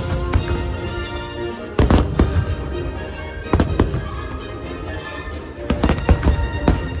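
Fireworks exploding in sharp bangs, with clusters about two seconds in, around three and a half seconds and again around six seconds, over the show's patriotic music.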